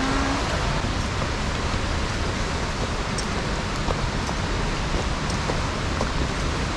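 Steady rush of a mountain stream or cascade flowing, an even hiss with no break, with a few faint ticks scattered through it.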